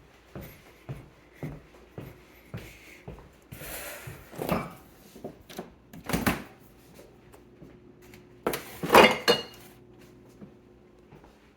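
Kitchen handling sounds while a tart is fetched from a refrigerator: light knocks at a walking pace, then a rustle and a sharp knock, and the loudest clatter, of a door and a dish, about nine seconds in.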